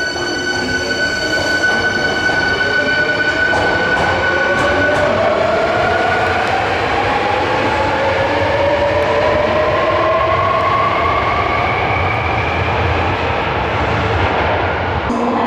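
Subway train pulling away from the platform, its electric traction motors whining in a steadily rising pitch over a steady rumble. The sound cuts off abruptly near the end.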